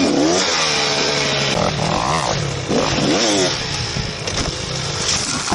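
Dirt bike engine revving, its pitch rising and falling several times in the first few seconds, then running lower and steadier.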